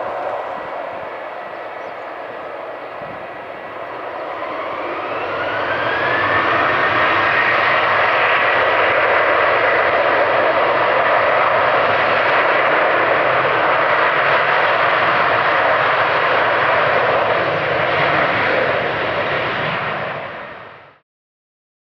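Jet airliner's engines, a loud rush with a whine that rises in pitch from about four seconds in and then holds steady. The sound cuts off abruptly about a second before the end.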